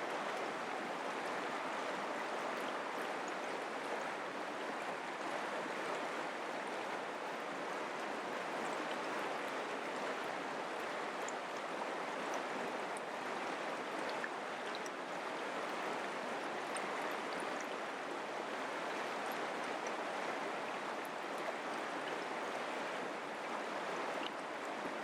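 Mountain creek flowing over rocks: a steady, even rush of running water.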